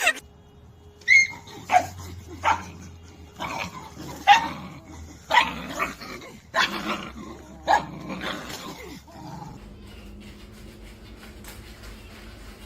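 A dog barking in about eight short, irregular barks over several seconds, then falling quiet under a faint steady hum.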